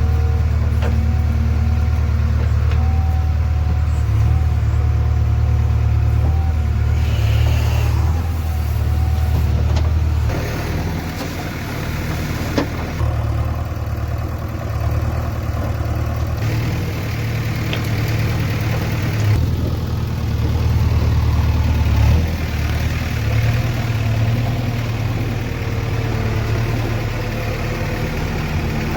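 Diesel engine of heavy machinery running steadily, its note and loudness shifting every few seconds. There is one sharp knock about halfway through.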